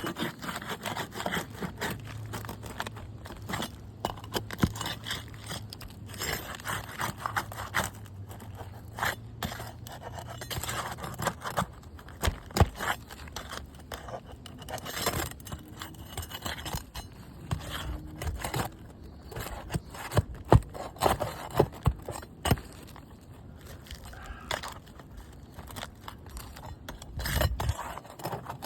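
Irregular scraping with sharp clicks and knocks: a hand tool working under roof shingles, prying out the nails that hold a row of shingles so a creased shingle can be pulled free and replaced.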